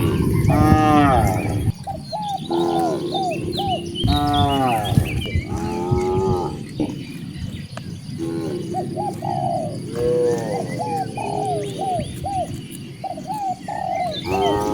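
A herd of cattle mooing and calling over one another in many short, rising-and-falling calls, with a quick run of shorter calls in the second half. Small birds chirp faintly above them.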